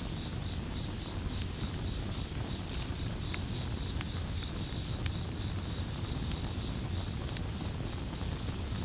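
Campfire burning with a steady low rumble and scattered sharp crackles and pops, under a continuous high-pitched trill of crickets.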